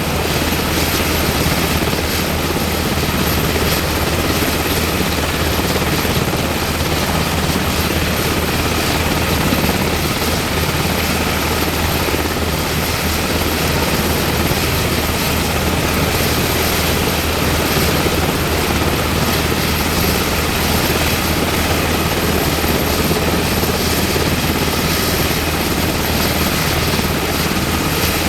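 UH-60M Black Hawk helicopter's twin turboshaft engines and rotor running steadily, a continuous roar with a thin high turbine whine above it.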